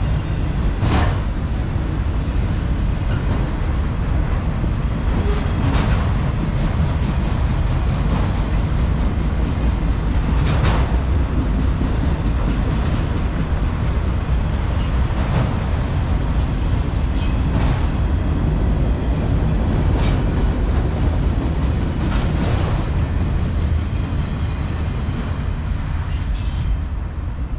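Freight train of autorack cars and boxcars rolling past at close range: a steady rumble of steel wheels on the rails, with a sharp clack every few seconds.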